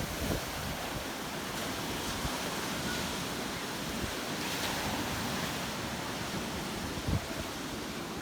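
Sea surf washing in steadily, with wind rumbling on the microphone in gusts, strongest about seven seconds in.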